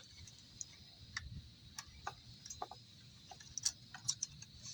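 Light, irregular clicks and taps of a metal hose clamp and screwdriver being handled on a lawn mower engine's hose, with no engine running.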